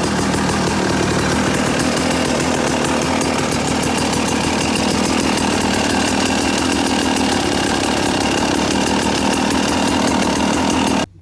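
1994 Yamaha WR250's single-cylinder two-stroke engine running steadily, then cutting off suddenly near the end.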